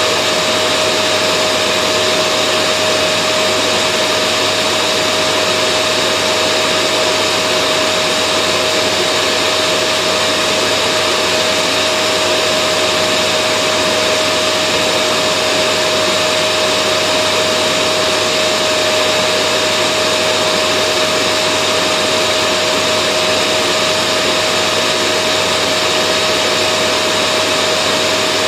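Vacuum cleaner running continuously at a steady, unchanging pitch, a loud motor whine with a steady whooshing airflow, used as white noise to soothe babies to sleep.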